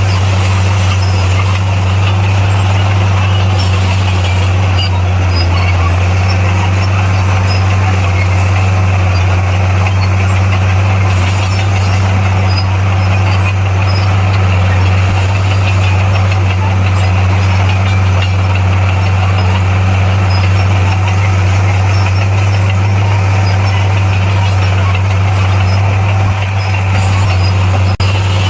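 Bulldozer's diesel engine running steadily, a constant deep drone with mechanical noise over it.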